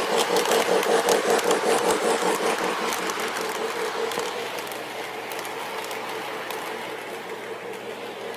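Lionel model train locomotive running on a store layout: a steady electric-motor whir with a fast, even rattle of wheels on track. It is loudest for the first few seconds, then eases off a little as the train runs on.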